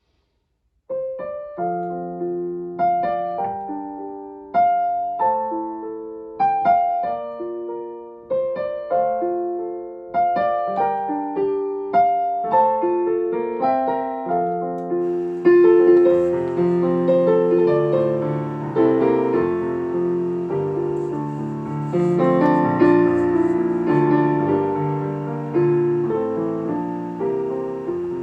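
Piano playing the slow hymn tune as an introduction, a note-by-note melody over light chords that thickens into fuller, louder chords about halfway through.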